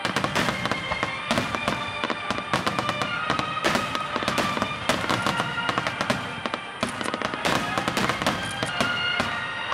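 A rapid barrage of large aerial firework shells bursting, with many sharp bangs and crackling. It breaks in suddenly and keeps up throughout.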